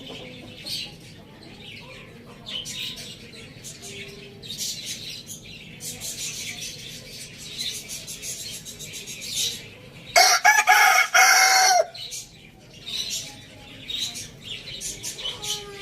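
A rooster crows once, loud, about ten seconds in, for under two seconds. Around it, thin high chirping goes on throughout, with a few clucks near the end.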